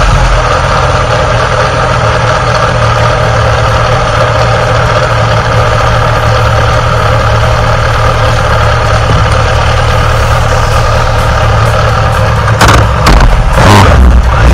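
Yamaha XJR1300's air-cooled inline-four engine idling steadily, with a couple of brief swells in engine sound near the end.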